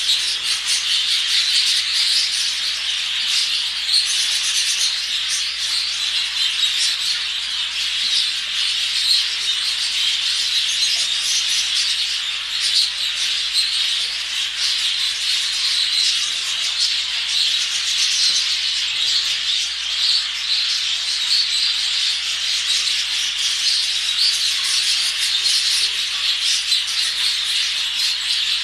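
A flock of exhibition budgerigars chattering and chirping together, a dense, continuous high-pitched twittering.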